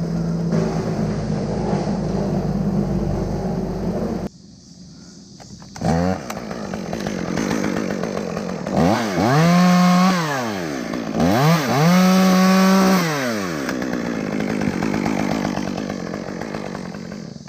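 Two-stroke chainsaw revved in a quick blip, then twice run up to full speed, each held about two seconds before dropping back, then running lower until it fades near the end. Before that, a steady engine idling drone cuts off suddenly about four seconds in.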